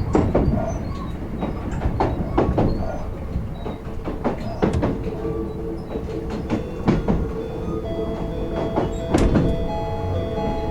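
Kintetsu 16600 series train heard from the end of a car: wheels knocking over rail joints, with the whine of its Hitachi-built inverter drive coming in about halfway through as a set of steady tones that step in pitch.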